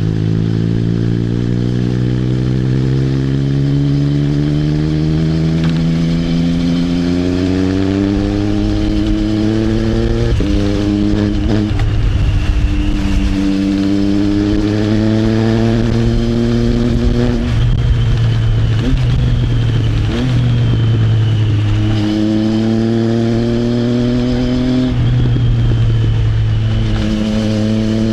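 Triumph Trident 660's inline three-cylinder engine through an Arrow exhaust, pulling steadily up through the revs for about ten seconds, then shifting up and pulling again. The note drops with each upshift and climbs again several times.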